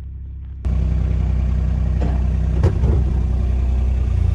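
A vehicle engine running steadily, starting abruptly under a second in, with a few knocks or rattles about two to three seconds in.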